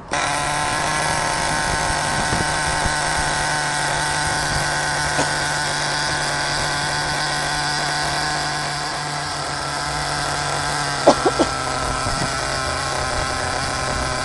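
Small SH .18 nitro glow engine in an RC truck running steadily, a buzzing engine note that cuts in abruptly, dips slightly partway through and has a few sharp clicks near the end. The engine is new and on its break-in tanks, set to run very rich.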